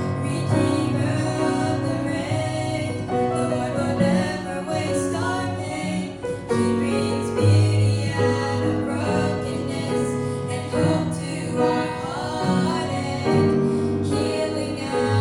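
Two female voices singing a slow gospel ballad together, accompanied by piano and guitar.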